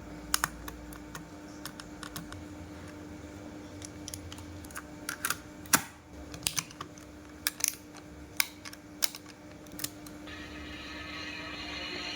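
Irregular small plastic clicks and taps, about a dozen, the loudest a sharp click near the middle: the parts of a Sony Walkman WM-GX221 cassette player being handled as it is put back together. Near the end a steadier sound with several tones comes in.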